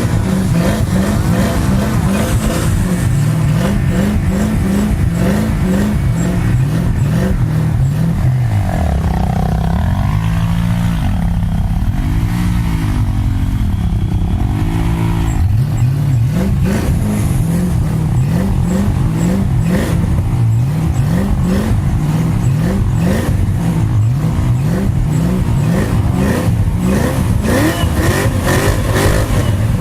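Vehicle engine running under load and revving, its pitch rising and falling several times in the middle.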